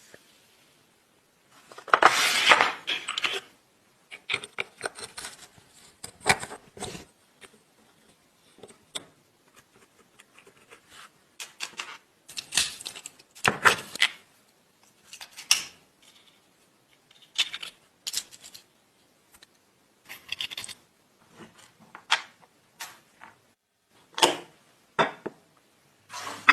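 Small metal parts and hand tools clinking, tapping and scraping on a work surface, in short irregular bursts with quiet gaps between. The longest and loudest scrape comes about two seconds in.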